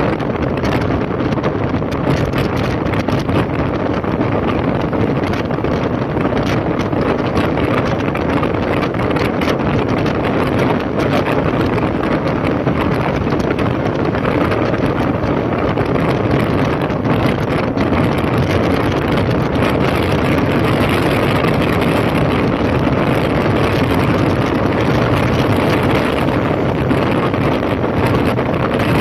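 Honda CB1300's inline-four engine running at a steady cruise while the motorcycle rides along, mixed with heavy wind rush buffeting the microphone.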